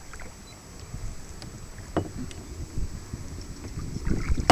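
Kayak paddling: paddle strokes in the water with wind rumbling on the microphone, broken by a few sharp knocks, one about two seconds in and a louder one at the end.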